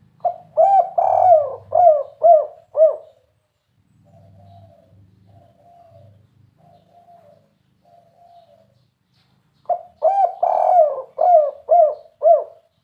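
Spotted dove (tekukur) cooing in the 'kuk 3' call type: two phrases, each a quick run of about six coos, with fainter soft notes in between.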